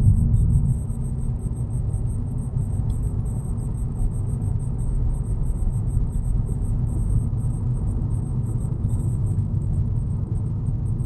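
Steady low hum inside a Volkswagen Jetta Mk6, the buzz it makes when the brakes are applied below about 10 km/h.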